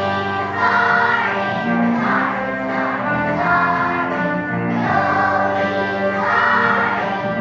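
A choir of young children singing together over instrumental accompaniment, in long held phrases.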